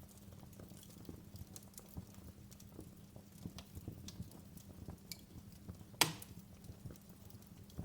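Wood fire in a fireplace crackling, with scattered small pops and snaps over a low steady rumble. One much louder pop comes about six seconds in.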